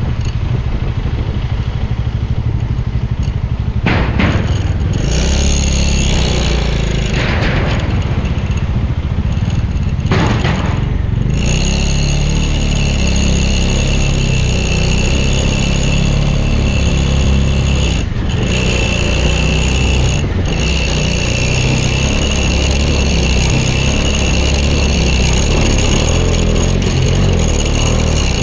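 Motorcycle engine running steadily at riding speed, with wind and road noise over it and a few brief rushes of noise in the first half.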